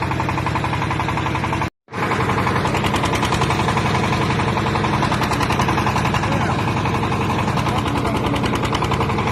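Backhoe's engine running steadily at an even speed, with a brief drop to silence about two seconds in.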